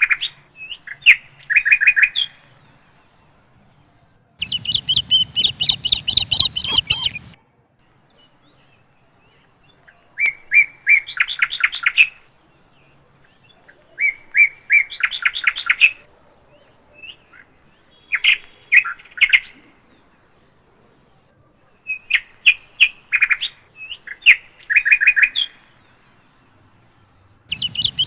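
Birds chirping in repeated bursts of rapid chirps, each burst about two seconds long with short pauses between. One fuller, brighter burst comes about five seconds in.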